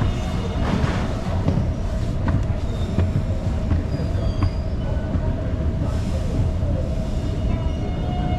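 Metro train running: a steady low rumble with a constant thin whine and scattered light clicks.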